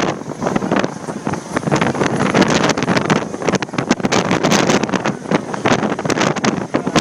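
Heavy wind buffeting the microphone in irregular gusts over a steady rushing noise.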